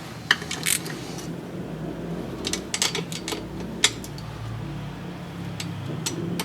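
Irregular clicks and light metal knocks of hand tools and engine parts being handled during engine assembly, over a steady low hum.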